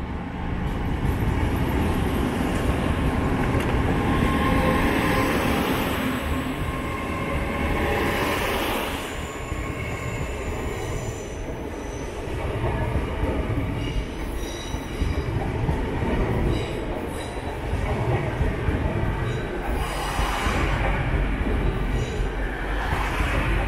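GWR Class 802 intercity multiple unit departing slowly past at close range: a steady low rumble of wheels and running gear, with thin high tones coming and going in the middle of the pass.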